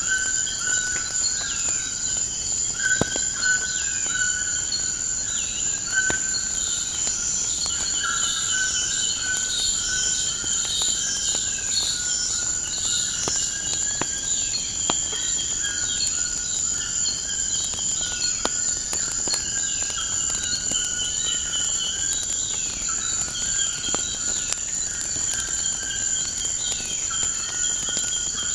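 Continuous high insect trilling, with repeated short chirping calls from birds over it and scattered sharp pops of a crackling wood fire.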